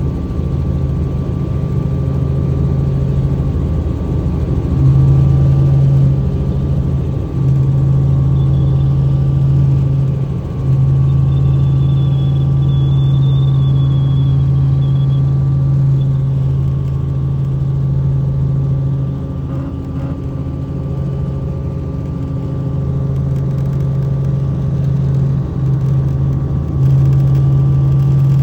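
Helicopter engine and rotor noise: a loud, steady low drone with a constant higher whine, the low hum dipping briefly a few times.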